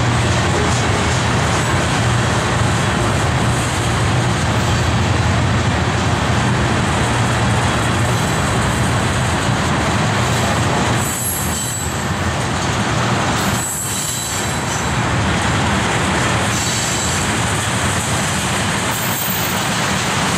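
Tank cars of a long freight train rolling past on the rails: steady wheel and rail noise.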